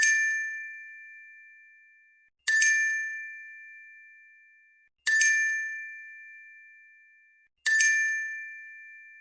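A bright bell chime struck four times, about two and a half seconds apart. Each strike rings out and fades away, and all four sound identical.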